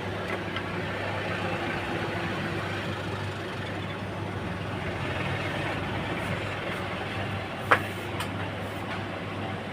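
Steady low background hum with a noisy haze, and a single sharp knock about three-quarters of the way through.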